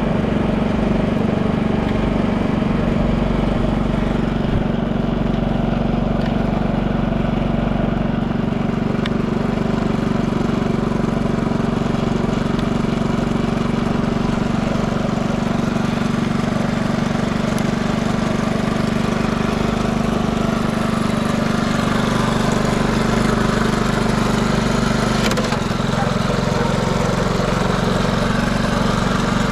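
Early Honda C70 'andon' Cub's 72 cc single-cylinder four-stroke engine running steadily at idle, with no abnormal noise.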